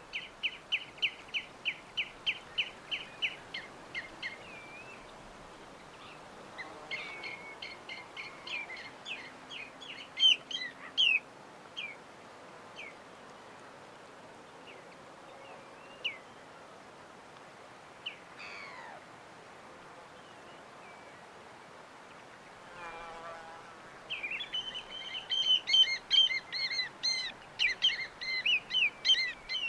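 Small birds chirping: quick series of short, high chirps, about two or three a second, busy at the start, then scattered calls and a quieter stretch, and dense overlapping chirping again near the end. A faint steady hiss runs underneath.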